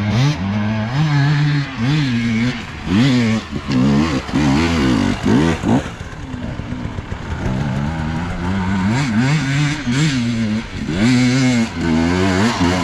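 Enduro motorcycle engine revving up and down over and over, its pitch rising and falling about every half second to a second as the throttle is worked on rough ground.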